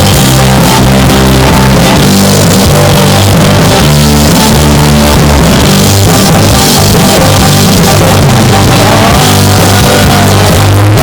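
Live band playing amplified rock music with drums and guitar, recorded so loud that the sound is heavily distorted and clipped.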